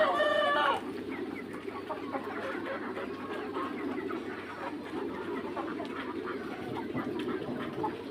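A flock of young Mía chickens clucking and chirping, with one loud drawn-out call in the first second and many short calls after it.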